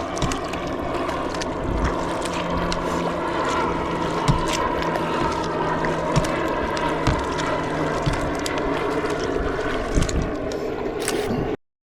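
Kayak paddling: steady water noise from the paddle strokes and hull, with occasional knocks, over wind on the microphone. The sound cuts off abruptly near the end.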